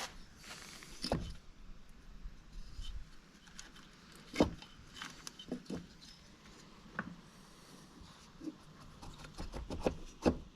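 Scattered metallic clicks and light knocks from engine parts being handled during reassembly of a single-cylinder ATV engine. The sharpest knock comes about halfway through, and a quick run of clicks comes near the end.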